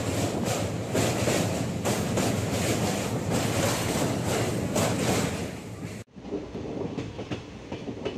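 Kanchan Kanya Express running, heard from inside a coach at an open window: a steady rumble of wheels on rails with irregular clicks at the rail joints. About six seconds in, the noise drops sharply to a quieter run of the same sound.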